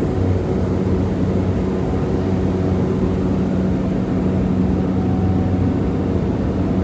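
Small propeller airplane engine running steadily in flight, a loud even drone with a deep hum.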